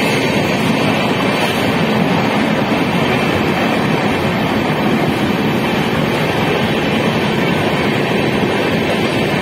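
Steady, loud rumble and rush of a passenger train running along the track, heard from aboard.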